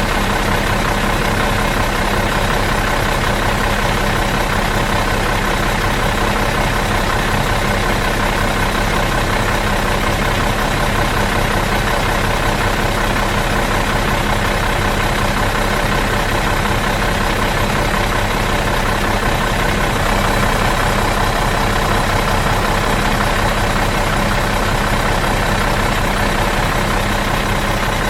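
Bus engine idling in neutral, a steady, unchanging hum.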